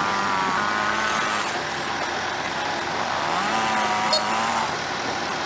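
Heavy machine's engine revving up and holding, then dropping back, and revving up again about three and a half seconds in.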